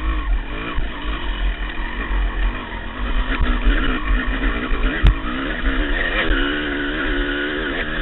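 250 cc two-stroke dirt bike engine revving up and down again and again, under load on a steep climb. There is a sharp knock about five seconds in.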